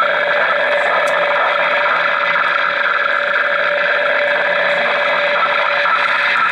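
Unidentified shortwave signal near 9 MHz coming through a Realistic DX-200 receiver's speaker: a steady, dense rasping noise with a constant tone running through it, unchanging throughout.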